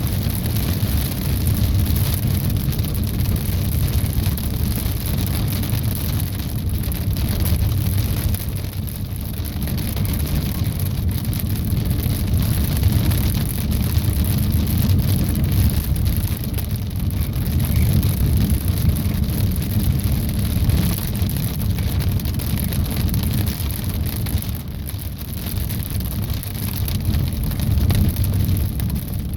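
Rain and pea-sized hail hitting a car's roof and windshield in a dense, even stream of small ticks, over a steady low rumble from the vehicle.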